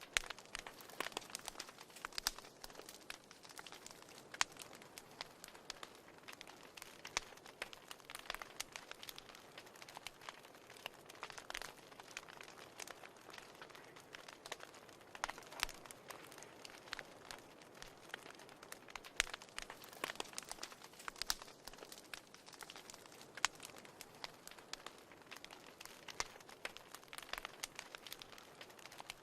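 Wood fire burning in a fireplace: a soft hiss with irregular crackles and pops, a few of them sharper and louder than the rest.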